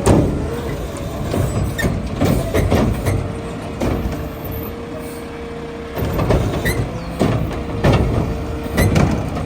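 Garbage truck working its hydraulics. A steady whine is held over the engine's rumble, with repeated metal clanks and bangs.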